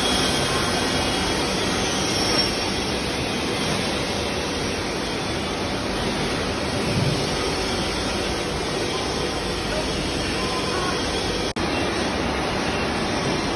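Steady machinery noise, even and continuous, cut off for an instant about eleven and a half seconds in.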